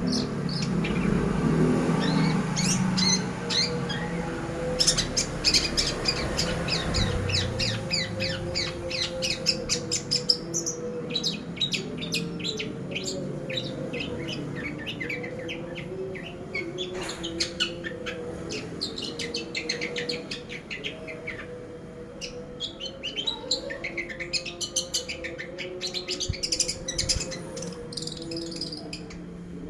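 Long-tailed shrike (cendet) singing a fast, chattering song of rapid high chirps, with a steady low hum underneath.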